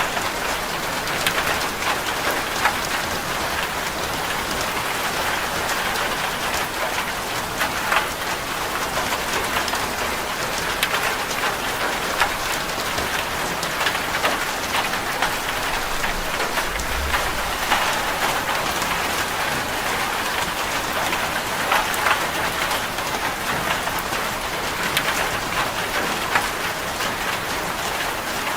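Steady heavy rain drumming on a corrugated zinc roof, a dense patter of countless sharp drop impacts on the metal sheeting.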